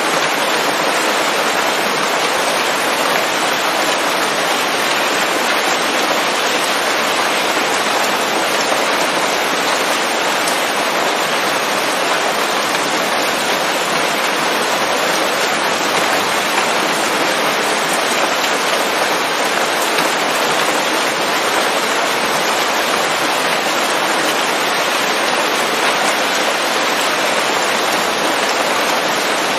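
Steady rain falling on leaves: an even, unbroken hiss of many drops with no thunder.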